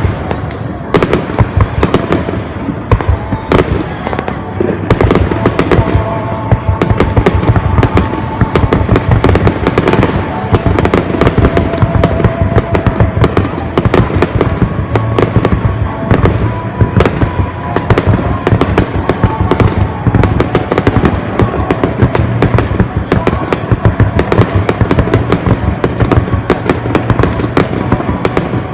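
Aerial fireworks display: a dense, unbroken barrage of shell bursts and crackling bangs, many per second.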